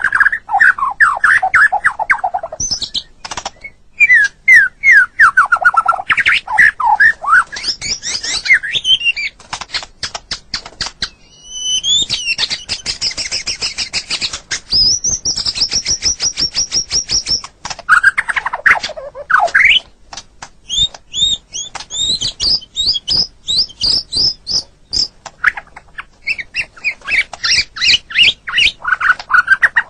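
White-rumped shama singing a varied song: whistled phrases sweeping down in pitch, quick repeated notes and clicks, and about halfway through a high, fast trill held for about three seconds.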